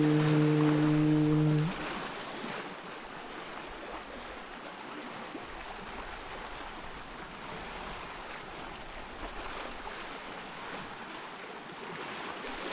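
The reciter's voice holds a final sustained note of Quran recitation that cuts off about a second and a half in. After it, a steady rushing of water is left, swelling slightly.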